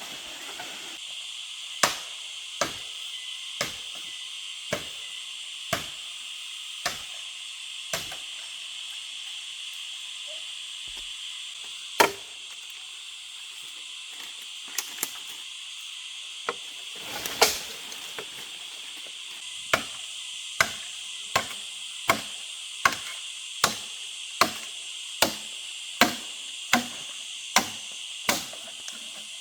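Repeated sharp knocks like chopping strokes, about one a second at first, scattered in the middle, then a quicker run of them near the end, over a steady high-pitched insect buzz from the forest.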